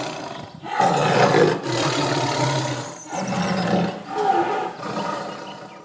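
Tiger roaring: a run of about five long, rough roars one after another, with short breaks between them.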